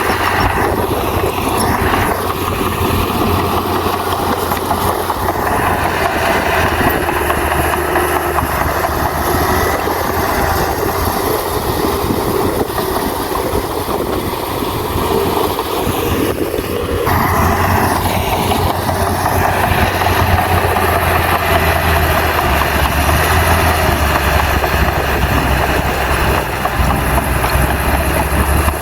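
Diesel engine of heavy earthmoving equipment running steadily under work. The sound changes abruptly about seventeen seconds in, with a stronger low rumble afterwards.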